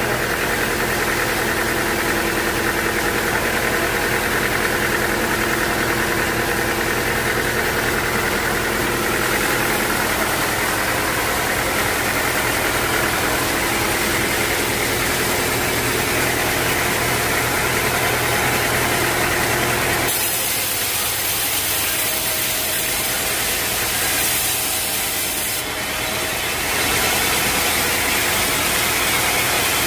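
Sawmill machinery running with a steady mechanical hum. About twenty seconds in the low hum thins under a brighter hiss, and the fuller sound returns a few seconds before the end.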